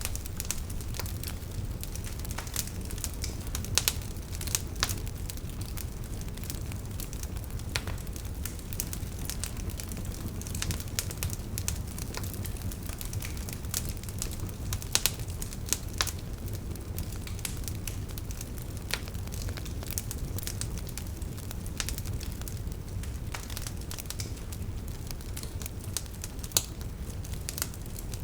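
Campfire burning with a steady low rumble and irregular crackling, many small snaps and a few louder pops.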